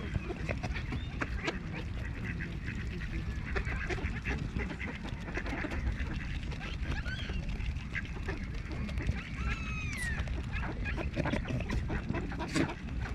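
Geese and other waterfowl calling with short honks and quacks around a feeding spot, one falling call about ten seconds in, over a low rumble and scattered short clicks.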